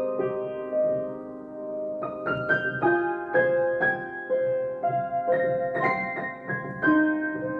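Solo piano playing a slow, gentle melody over sustained chords, the notes struck one after another at an unhurried pace and left to ring.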